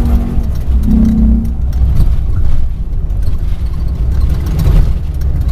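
Ford Raptor off-road race truck heard from inside the cab, its engine running under load with a constant low rumble while the truck jolts and rattles over rough, rutted dirt track.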